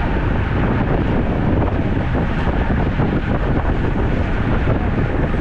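Wind buffeting the microphone while riding a road bike: a steady, loud rumbling rush with no breaks.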